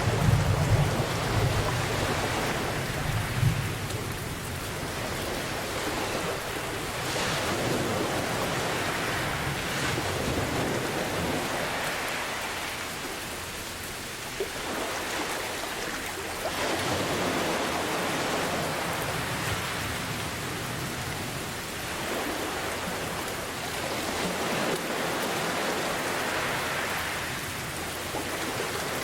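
Steady rain with a low roll of thunder fading over the first few seconds. The rain's hiss then swells and eases every few seconds.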